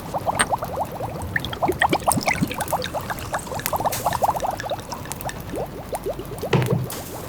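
A pot of food simmering, with a steady run of small bubbles popping, over the light crackle of a wood fire.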